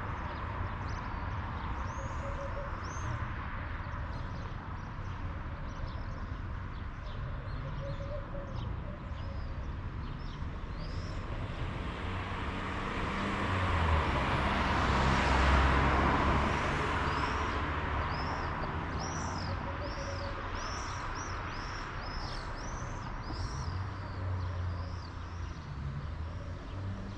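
Small birds chirping repeatedly over a low background rumble. A vehicle passes by about halfway through, its noise swelling to a peak and then fading away.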